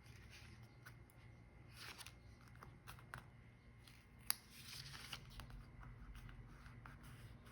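Quiet handling of paper and stickers: soft scattered rustles and small taps, with one sharp click about four seconds in.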